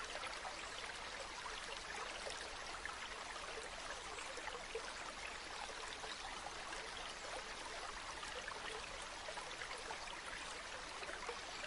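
Shallow river or stream flowing steadily over stones, an even rushing with many small bubbling and trickling splashes.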